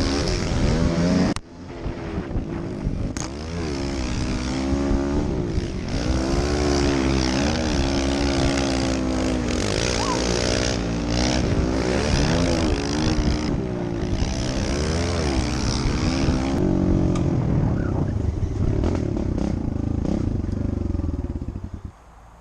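Kawasaki KLX110 pit bike's single-cylinder four-stroke engine revving up and falling back again and again while being ridden, then cutting off near the end.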